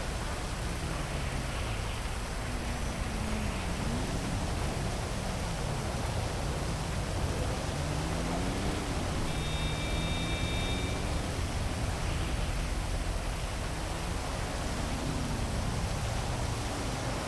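Steady hiss of heavy rain over a city, with the low engine note of traffic rising and falling several times as vehicles pass. A brief high tone sounds about ten seconds in.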